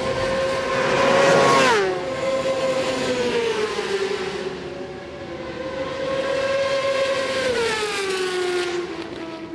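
Racing superbike engines at high revs going past twice: each time a loud, high engine note holds and then drops sharply in pitch, once about two seconds in and again near the end.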